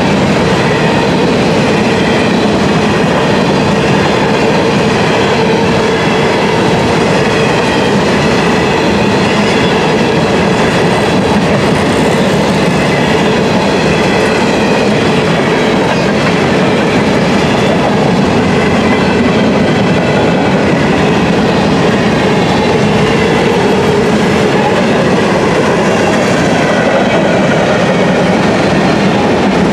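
Freight train of grain hopper cars rolling past, a loud, steady rumble of steel wheels on rail with faint, steady whining tones over it.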